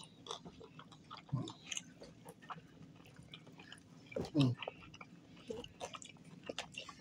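Close-up chewing and mouth sounds of someone eating a bite of pizza: many small wet clicks and smacks, with a short voice sound about four seconds in.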